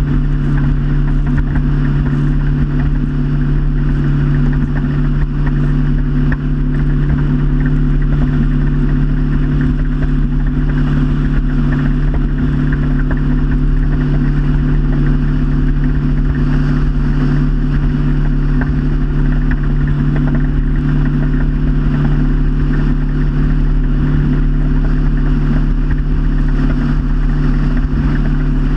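Motorboat engine running steadily under way, a constant drone with a steady rushing noise over it.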